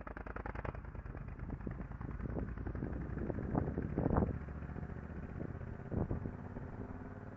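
Motorcycle engine running at low revs, a steady low rumble with a few short louder swells about halfway through and again near the end.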